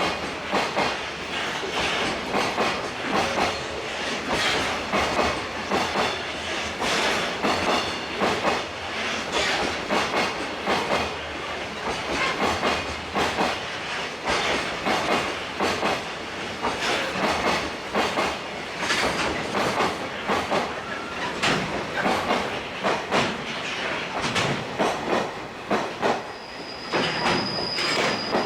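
Wagons of a long electric-hauled freight train rolling past, their wheels clicking steadily over the rail joints. A thin high wheel squeal sets in near the end.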